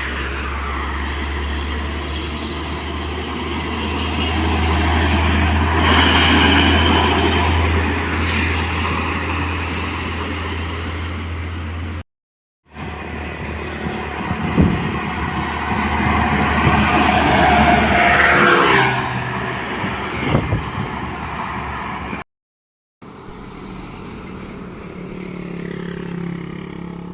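Road traffic with big trucks driving past close by, engines running over tyre and road noise. The sound cuts out briefly twice between clips, and about two-thirds of the way through a passing vehicle's pitch falls as it goes by.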